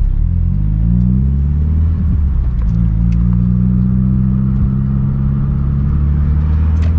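Mitsubishi Lancer Evolution IX's turbocharged 4G63 four-cylinder running through a muffler-delete exhaust, a steady low exhaust drone that rises slightly in pitch in the first second and then holds at a fast idle. Only a little louder than stock, not that loud.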